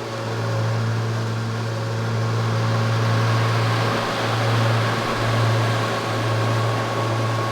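Fishing boat's engine running steadily under way, a strong low hum with a steady hiss over it.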